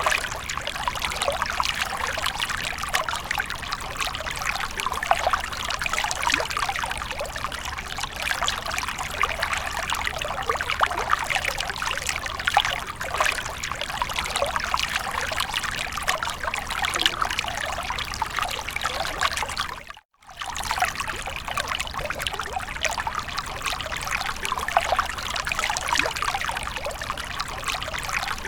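Water from a fountain trickling and splashing steadily, with a fine flickering patter. About two-thirds of the way through, the sound drops out for a split second and comes straight back.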